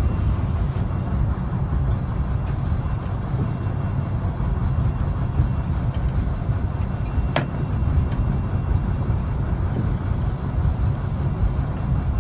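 Fishing boat's diesel engine running steadily, a low rumble, with one sharp click about seven seconds in.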